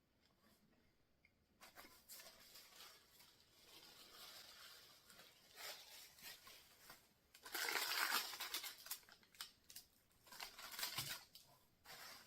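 Someone eating a crispy Cheesy Chicken Crispinada: faint chewing and crunching, with a louder crunchy stretch about eight seconds in.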